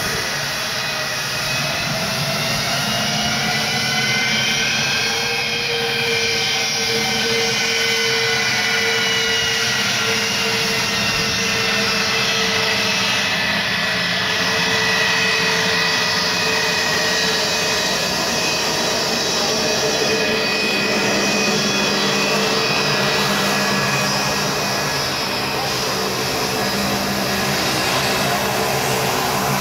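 Airbus A318 airliner's twin Pratt & Whitney PW6000 turbofans running loudly and steadily, their whine shifting in pitch, rising slightly about five seconds in and then slowly falling.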